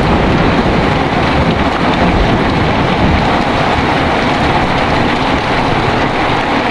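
Heavy rain and strong wind in a storm: a loud, steady rushing with a deep low rumble underneath.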